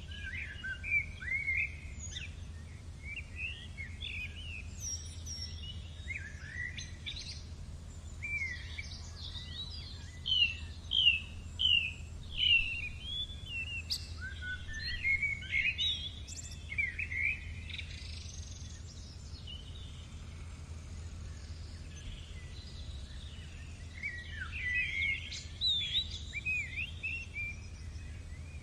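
Several birds chirping and singing in quick clusters of short rising and falling notes, busiest about a third of the way in and again near the end, over a steady low rumble.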